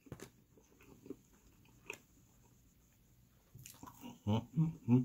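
Close-up mouth sounds of a person eating chicken nuggets: soft chewing with small clicks, then a bite into a nugget. Near the end come a few short, louder voiced sounds.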